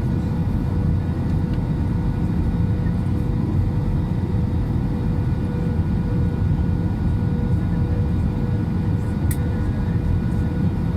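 Airplane engines running steadily: a low rumble with a constant hum over it.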